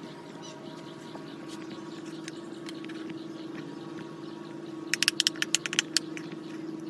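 A steady low hum, and about five seconds in a quick run of about ten sharp taps or clicks within one second.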